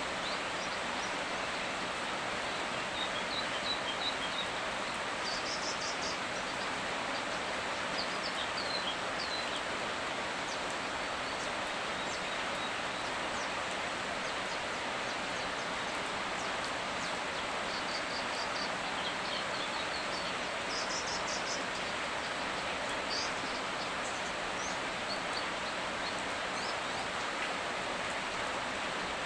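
Steady rain falling with an even hiss, while a few birds chirp in short high bursts now and then over it.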